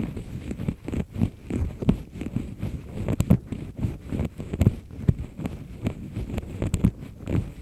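Double-disc earpick scraping and rubbing firmly inside an ear canal right at the microphone, in quick irregular strokes with scratchy rustling and small clicks, several a second.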